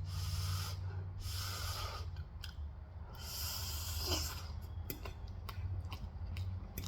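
Close-miked eating: three long breaths through the nose in the first four seconds, then small wet mouth clicks of chewing, over a steady low hum.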